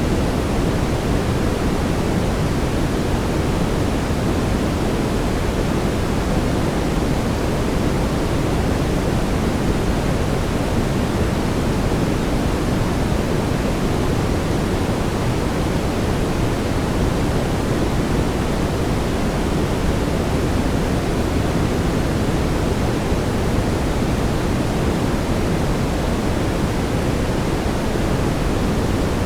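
Steady brown noise: a continuous, even hiss weighted toward the low end, with no changes.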